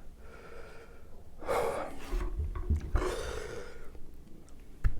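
A man breathing hard through his mouth in a few heavy, hissing breaths, the loudest about a second and a half and three seconds in, from the burn of very spicy hot chicken.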